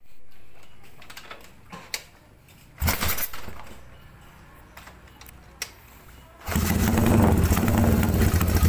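A motorcycle engine fitted with a new BMS aftermarket exhaust muffler: a short burst of engine noise about three seconds in that dies away, then the engine starts about six and a half seconds in and runs steadily with a loud, low, even exhaust note.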